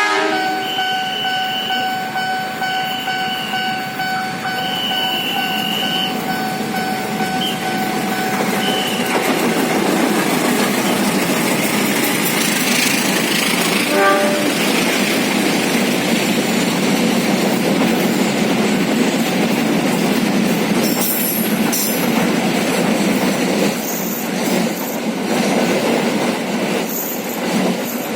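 Freight train passing at speed: a steady horn tone sounds for roughly the first nine seconds, then the wagons roll by in a continuous rumble of wheels on rail, with scattered clicks and brief high wheel squeals near the end.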